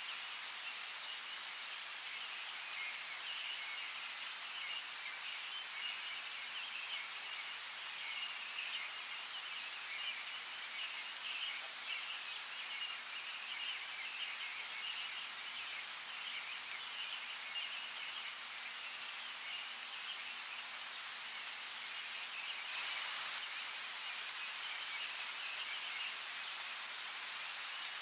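Steady rain falling, with a dense flickering chorus of birds chirping high above it. About three-quarters of the way through, the rain grows a little louder.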